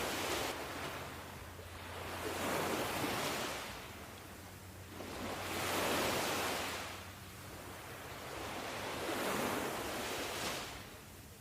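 Ocean waves washing on the shore in slow surges that swell and fade about every three to four seconds.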